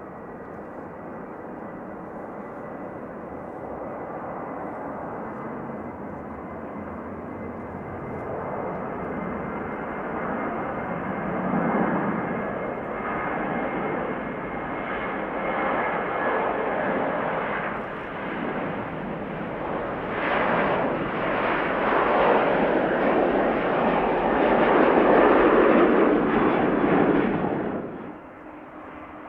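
Jet airliner engines, growing steadily louder as the aircraft comes closer, with a thin steady whine in the first half. The noise cuts off suddenly near the end.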